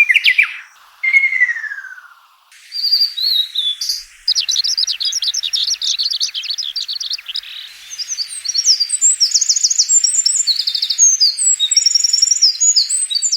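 Birdsong, several different songs in succession with abrupt changes between them. It opens with a long, even whistle and a whistle that slides downward. Fast, dense chattering follows from about four seconds in, then high, rapid trilled phrases in the last part.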